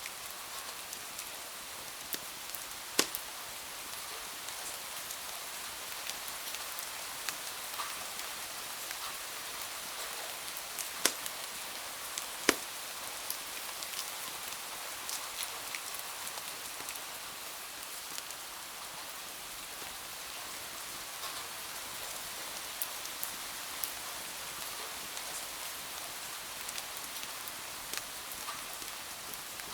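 Steady rain falling against windows, an even hiss, with the occasional sharp pop of a wood fire crackling in a fireplace; the loudest pops come about 3, 11 and 12 seconds in.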